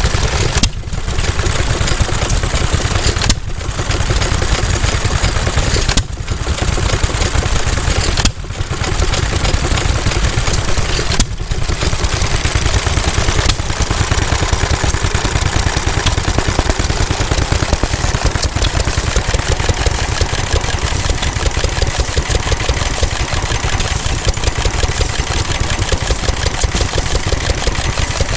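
Vintage stationary engines running with a fast, even exhaust beat. The sound breaks off briefly about five times in the first eleven seconds, then runs on steadily.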